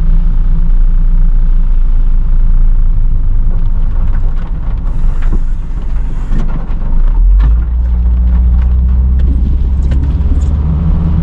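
Road and engine noise inside a moving car: a steady low rumble that deepens and grows about seven seconds in, with scattered light taps and a brief hiss a little after five seconds.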